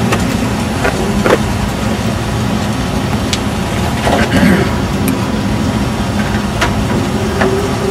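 Vehicle engine idling: a steady low drone, with a few light clicks over it.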